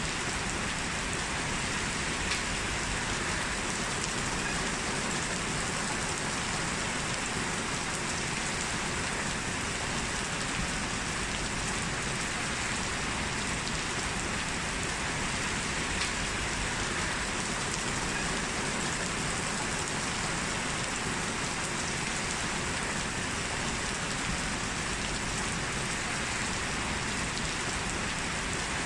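Heavy rain falling steadily in an even hiss, with an occasional single drop ticking a little louder.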